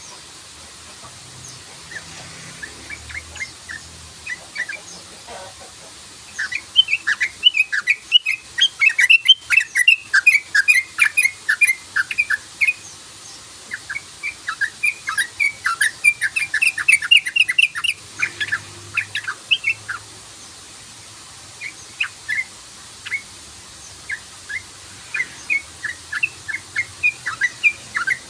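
Yellow-vented bulbul (trucukan) calling its rapid chattering 'cruk-cruk-cruk' in long fast runs of short notes, with brief pauses between runs.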